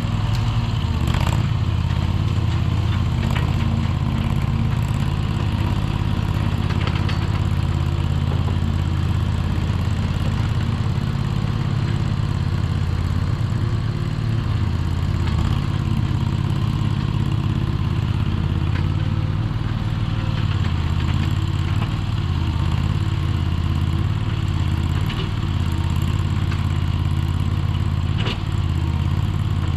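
Landhonor mini skid steer's engine running steadily at a low throttle, with a few short clanks over it.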